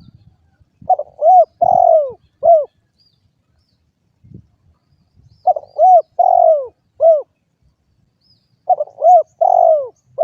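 Spotted dove (derkuku) cooing: three phrases of four notes each, repeated about every three and a half seconds, the last cut off at the end. Faint high chirps from small birds lie behind it.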